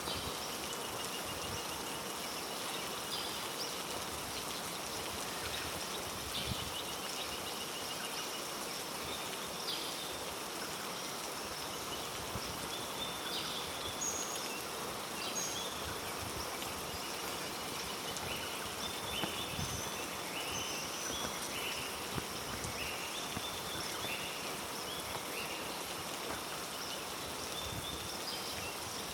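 Heavy rain falling steadily on rainforest foliage, a constant hiss. Many short high-pitched animal calls repeat over it throughout.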